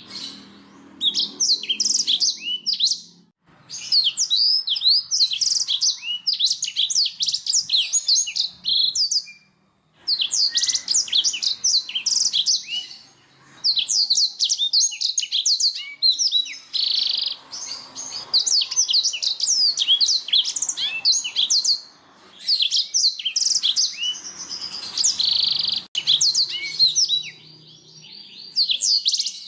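Domestic canary singing: long phrases of rapid chirps and trills, broken by short pauses every few seconds, with a brief harsh buzzing note about halfway through and again near the end.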